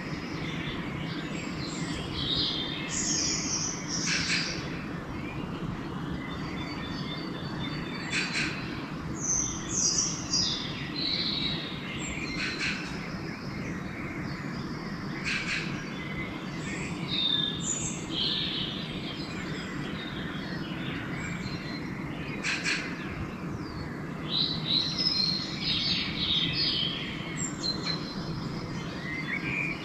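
Dawn chorus of several songbirds singing and chirping, with overlapping phrases and a few short, sharp calls, over a steady low background rumble.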